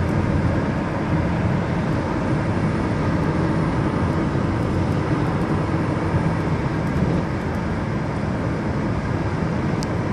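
Steady rumble of a car driving on a highway: engine and tyre noise.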